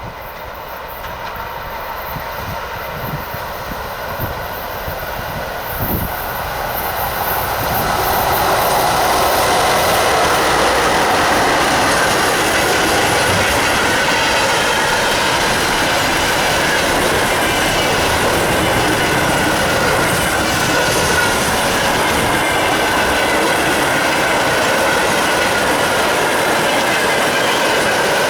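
Electric-locomotive-hauled train approaching and passing close by. The rail noise grows over the first several seconds, then holds as a steady loud rumble of wagons rolling past, with wheels clicking over rail joints and a faint high squeal from the wheels.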